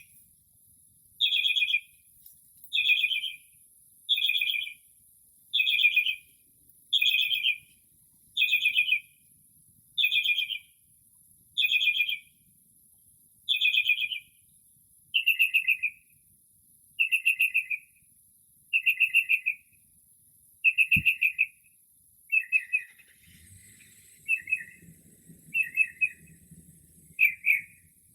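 Northern mockingbird singing, repeating one phrase of rapid notes about every second and a half, over and over, then switching to a shorter, quicker phrase about three-quarters of the way through.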